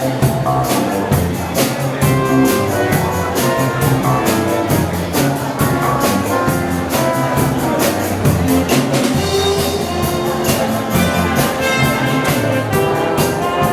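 A live wind band, brass with a drum kit, playing upbeat dance music with a steady beat.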